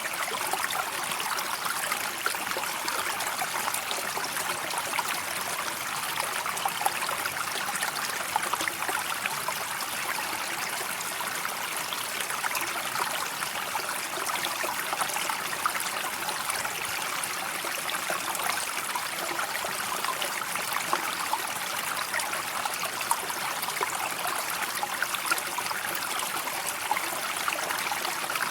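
A river's water flowing and trickling steadily, a continuous rushing splash with fine bubbling detail.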